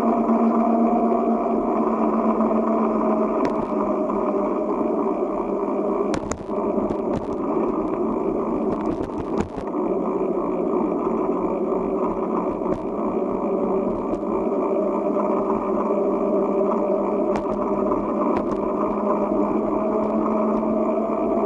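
Steady rushing wind and rolling noise from a bicycle ride, with a run of sharp knocks and rattles about six to ten seconds in, as from the bike jolting over a rough surface.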